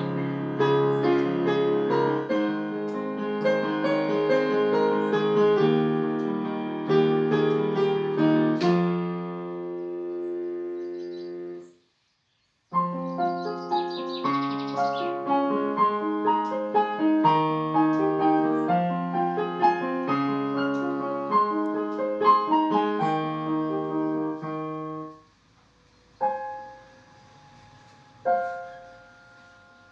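Solo piano playing: a flowing run of notes ends on a held chord that fades away, a brief silence follows a little before halfway, then a new passage of notes begins. Near the end only a few single chords are struck and left to ring out.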